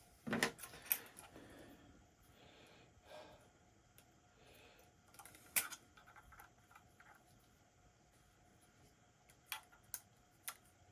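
Scattered light clicks and taps of small metal parts and tools being handled as a PCP air rifle's action is taken apart to find why the cocking binds. There is a sharp click about halfway through and three quick ones near the end.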